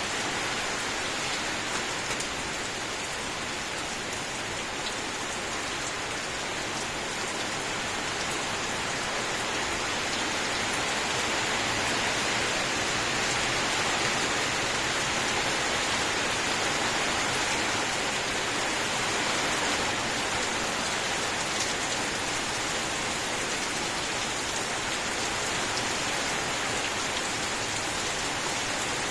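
Steady rainfall: an even hiss of many drops, swelling slightly around the middle.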